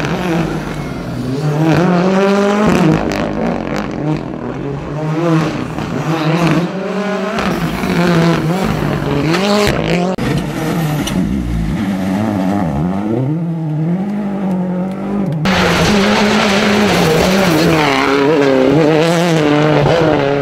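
Rally cars at full effort on a stage: engines revving hard, the pitch climbing and dropping back again and again through gear changes and braking. The sound changes abruptly about fifteen seconds in.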